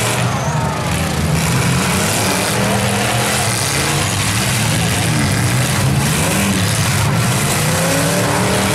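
Engines of several full-size demolition derby cars revving, their pitch rising and falling over a steady low drone, with a few knocks as the cars ram into each other.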